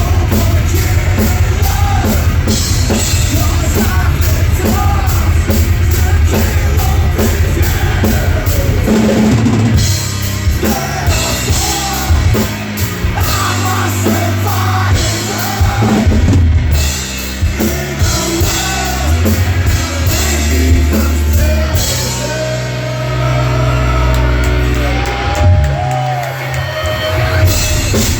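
Rock band playing live: drum kit with cymbals struck in a fast, even rhythm, bass and electric guitars, and singing. About ten seconds in the drumming thins out, and near the end a guitar plays sliding lead lines.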